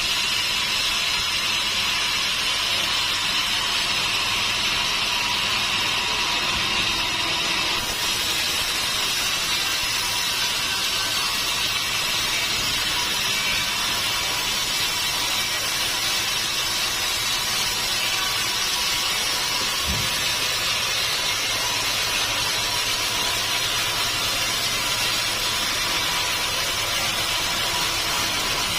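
A sawmill running steadily as it cuts through a mahogany log, a continuous hissing machine noise with a faint steady hum, and a brief low knock about two-thirds of the way through.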